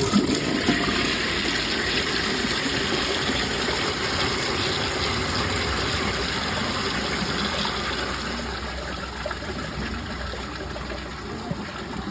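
Glacier Bay Power Flush toilet flushing from an overfilled tank, with its vacuum-assist hole left open: a loud rush of water into the bowl that eases off after about eight seconds.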